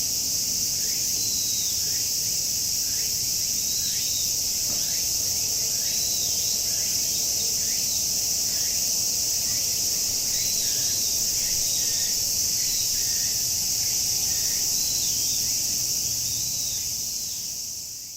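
Cicadas in chorus, a dense steady high-pitched drone, with small birds chirping over it every second or so; the whole recording fades out near the end.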